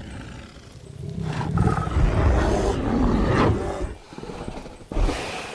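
Bear growling: one long, rough growl that is loudest in the middle, then a short second growl near the end.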